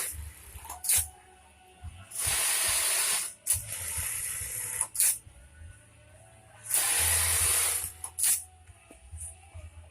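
Pressurised spray hissing in three long bursts aimed into a Juki 1850 bartack sewing machine, with a few sharp clicks between the bursts.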